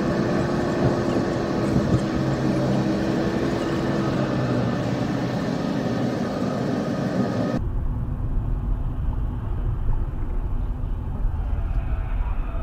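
Vehicle driving: steady engine hum and road noise with a slowly falling tone. About seven and a half seconds in it cuts abruptly to a different recording dominated by low road rumble.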